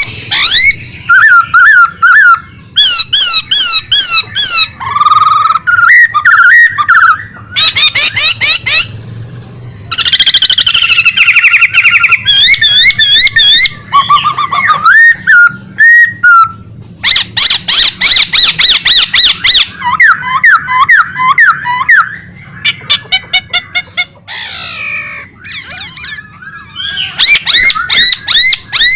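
A songbird singing loudly and non-stop: rapid runs of repeated sweeping whistles and fast trills in bursts, with short pauses between phrases.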